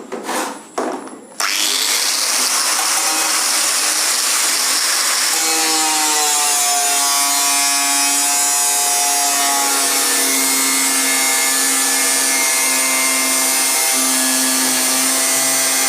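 Angle grinder cutting into the side of an inkjet printer's casing: a loud, steady grinding whine that comes in suddenly about a second and a half in, after a few knocks, its pitch dipping slightly as the disc bites and then holding steady.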